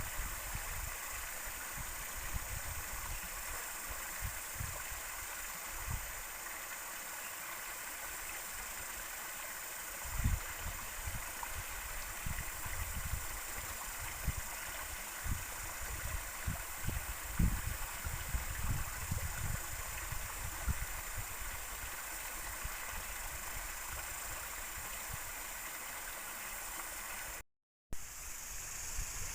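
Steady rushing of a flowing river, with irregular low rumbles now and then and a brief dropout near the end.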